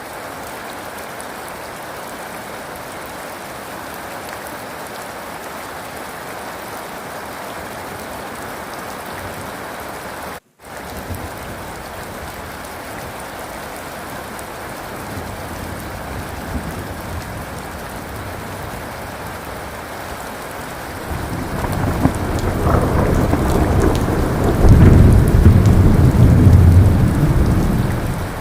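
Steady rain falling, cutting out completely for a moment about a third of the way in. In the last several seconds a roll of thunder builds into a deep rumble, the loudest sound here, easing just at the end.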